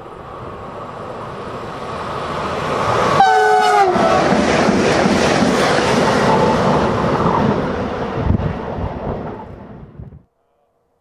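TPER ETR 350 electric multiple unit (a Stadler FLIRT) sounding a short horn blast about three seconds in, its pitch dropping as it draws past. Then comes the loud rush and clatter of its wheels on the rails as it passes, fading before the sound cuts off suddenly near the end.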